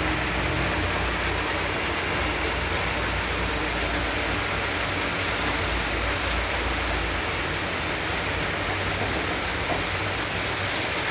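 Heavy tropical downpour: a steady, unbroken hiss of rain, with a low rumble underneath for the first several seconds.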